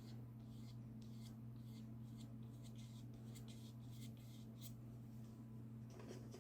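Faint, irregular scratchy strokes of a paintbrush spreading gouache across watercolour paper, over a steady low hum.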